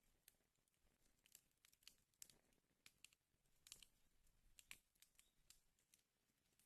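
Wood fire crackling in a fireplace: faint, irregular snaps and pops, with the sharpest ones a little past the middle.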